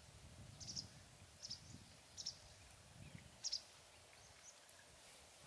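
Faint outdoor ambience with a small bird giving a few short, high chirps, roughly a second apart.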